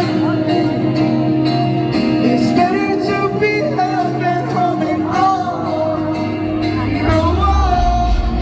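Live band playing a pop-rock song, with a male lead vocal singing over sustained instruments; a heavier low bass comes in about seven seconds in.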